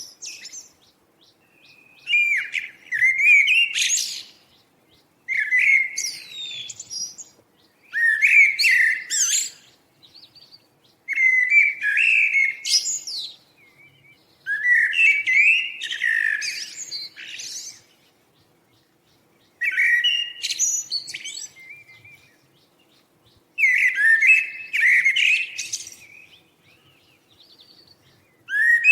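A songbird singing loud, warbling phrases of about two seconds each, repeated every three to four seconds with short pauses between.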